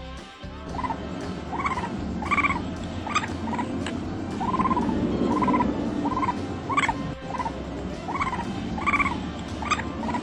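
A flock of birds calling together: many short, repeated calls overlapping over a steady din from the flock, starting about a second in.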